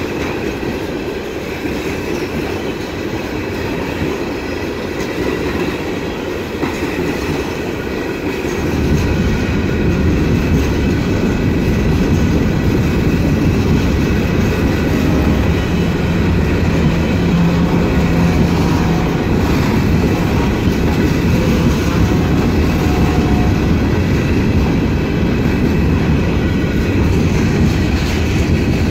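A&M freight train rolling past, its wheels running on the rails in a steady rumble that grows heavier and louder about eight or nine seconds in.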